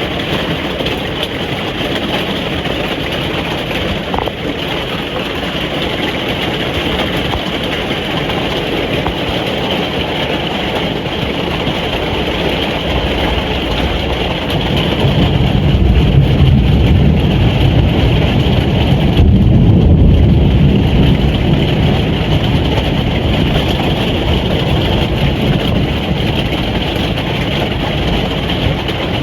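Steady rain drumming on a caravan roof, heard from inside. A deep rumble swells about halfway through and eases off again a few seconds later.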